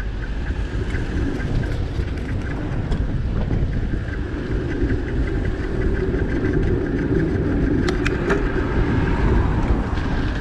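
Wind rushing over the microphone of a moving bicycle, with a steady low rumble of road noise that swells in the middle, and a few light clicks near the end.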